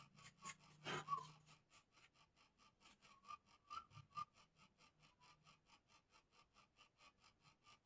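Faint, fast, even rubbing strokes, about six a second: hand-sanding the wooden parts of a bird cage. A sharper scrape or knock comes about a second in.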